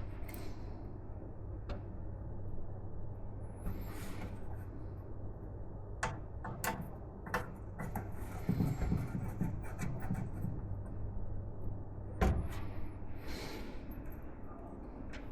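Hands handling PC parts and packaging: rustling in three short spells and several sharp plastic or metal clicks, over a steady low hum.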